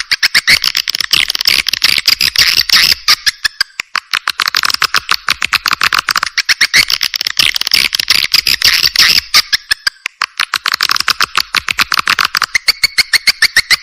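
Recorded swiftlet calls: a dense, rapid train of chirping clicks from several swiftlets, easing off briefly twice. This is a lure call of the kind played to draw swiftlets into a nesting house.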